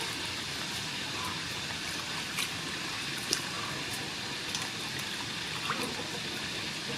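Water running and trickling steadily, with a few light clicks and knocks.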